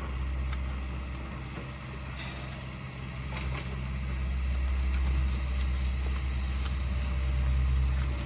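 A heavy engine running with a steady low hum that eases a little a couple of seconds in, then grows louder, with a few faint taps over it.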